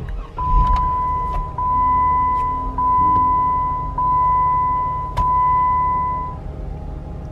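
Jeep engine starting and settling into idle while the dashboard warning chime sounds five steady tones in a row, each a little over a second long, then falls silent.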